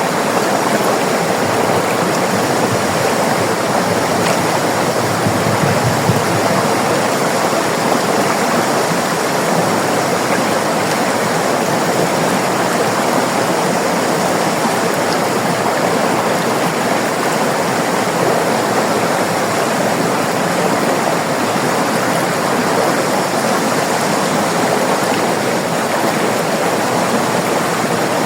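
River water rushing and babbling over rocks in a steady, continuous flow.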